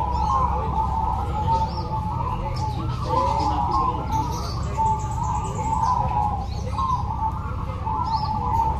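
Many zebra doves (perkutut) cooing at once in a dense, overlapping chorus, with thin high chirps from other small birds over a steady low background rumble.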